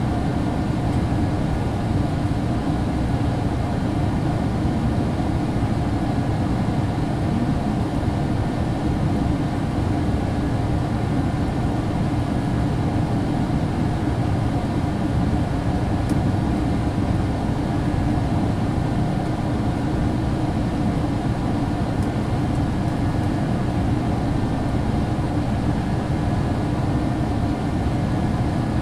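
Steady low rumble inside a GO Transit commuter train's passenger cabin as the train slowly pulls away from a station platform.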